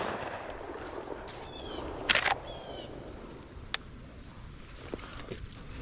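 The echo of a shotgun blast fading out, then a bird's short high call about one and a half seconds in and another just after a brief sharp noise around two seconds in. A single sharp click follows near the four-second mark.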